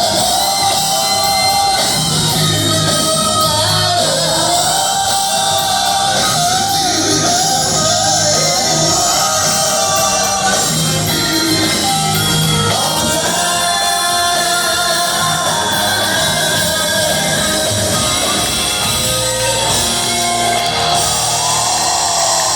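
Live rock band playing with a sung lead vocal, loud and steady, echoing in a concert hall.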